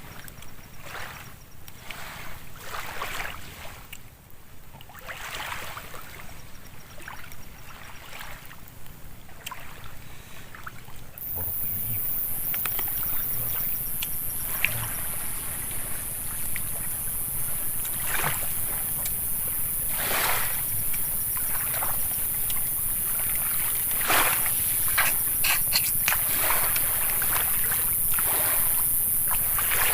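Water sloshing and splashing around a small boat in irregular swishes. About eleven seconds in, a steady high-pitched hiss starts and carries on, and the overall sound gets louder.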